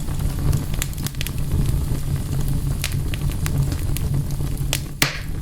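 Wood fire in a fireplace crackling, with frequent sharp snaps over a steady low rumble and one louder pop near the end.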